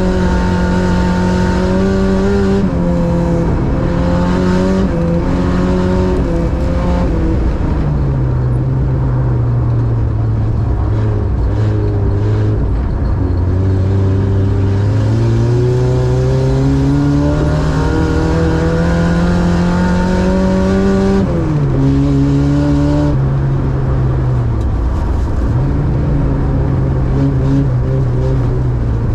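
Ice-racing car's engine heard from inside the cabin, revving under load through corners. Its pitch climbs slowly, then drops sharply several times as the driver shifts or lifts off, with steady tyre and road noise underneath.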